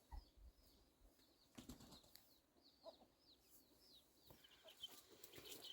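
Faint, quick bird chirps repeating over and over, with a few light clicks and soft knocks in between.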